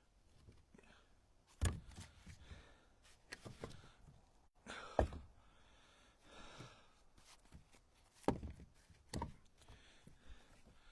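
Split ash firewood pieces being set onto a stack in a pickup truck bed: about five separate wooden knocks, a second or more apart.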